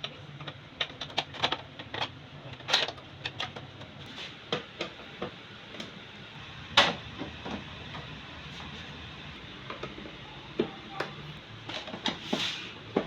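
Irregular clicks and knocks of hand tools and small parts being handled while working on a scooter handlebar, with one louder knock about seven seconds in.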